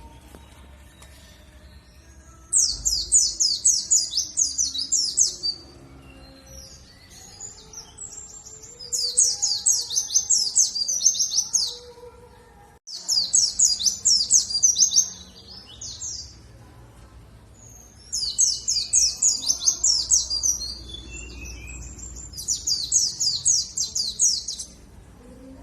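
Pleci dakun white-eye singing: five bouts of rapid, high chattering trills, each lasting about two to three seconds, with short pauses between them.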